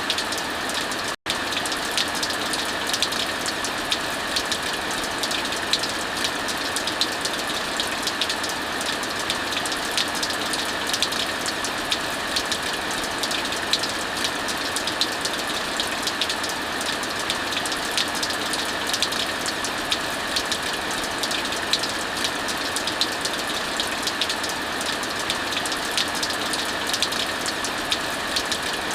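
Steady heavy rain mixed with the crackle of a wood fire, sharp little pops scattered through the even hiss of the rain. The sound cuts out for an instant about a second in.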